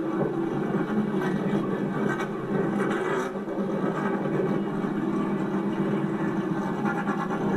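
Drag-race Volkswagen Beetle's engine idling at low, steady revs on the start line after its burnout.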